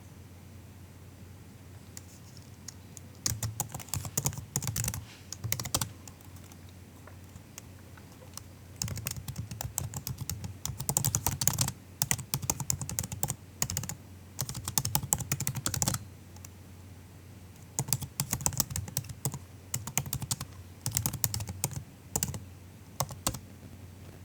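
Typing on a MacBook laptop keyboard: soft, rapid key clicks in bursts of a few seconds, broken by short pauses, over a faint low hum.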